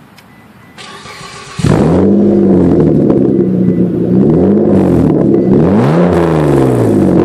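Car engine cranked briefly by the starter, catching with a sudden flare of revs, then blipped twice before settling into a steady idle, through a 3-inch stainless cat-back exhaust with a Megan Racing N1-style muffler. Very deep and throaty.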